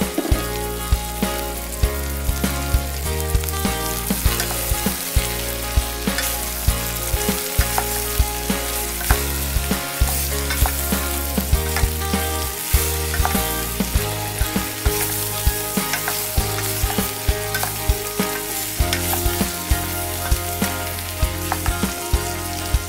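Leftover roast pork and sliced onions sizzling as they are stir-fried in a stainless steel pot and stirred with a wooden spoon, under background music with a steady beat.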